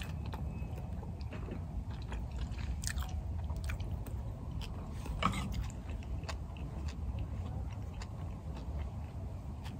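Close-up chewing and mouth clicks of a person eating, over a steady low hum.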